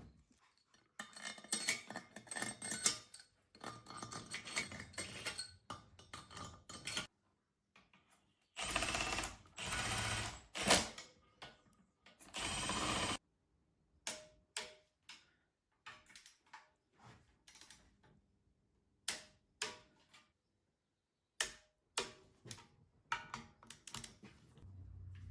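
Metal hand tools and small metal parts clicking and clattering in a series of short, separate bursts, with two stretches of steady hiss a few seconds long near the middle.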